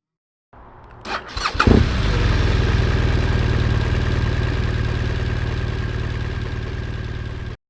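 Motorcycle engine starting: a brief crank and catch, then settling into a steady idle that stops abruptly near the end.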